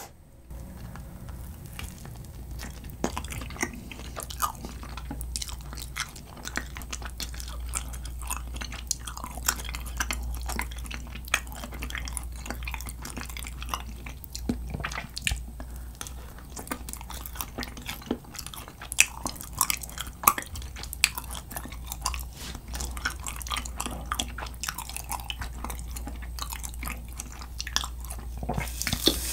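Close-miked chewing of grilled kirimochi rice cake glazed with a sticky gochujang tteokkochi sauce: many short wet mouth clicks and smacks, over a steady low hum.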